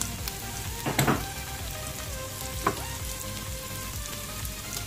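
Chicken pieces sizzling as they fry in a pot. There is a sharp knock about a second in and a lighter click near the three-second mark.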